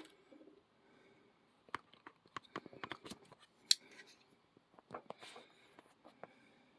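Scattered light clicks and taps with a little rustling, from a diecast scale model airliner and its packaging being handled. The sharpest click comes a little before the middle.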